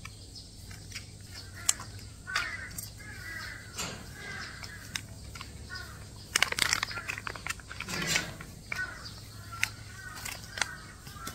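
A few short bird calls, crow-like caws, with scattered sharp clicks and rustling from something being handled close by.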